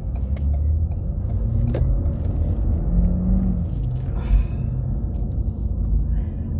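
Ford Fusion's engine and road noise heard from inside the cabin while driving, a steady low rumble with a few light clicks and one thump about four seconds in.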